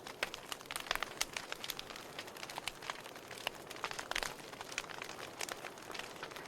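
Wood fire in a fireplace crackling: irregular sharp snaps and pops, several a second, over a soft steady hiss of burning.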